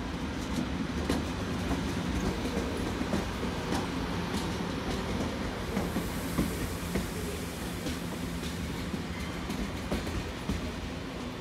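Double-deck TGV trainset rolling past, its wheels clicking irregularly over rail joints and points over a steady rumble and a faint low hum.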